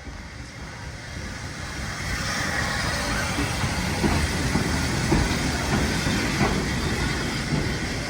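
Steam train approaching and passing on the rails, getting louder over the first few seconds, with wheel clatter and a hiss of steam.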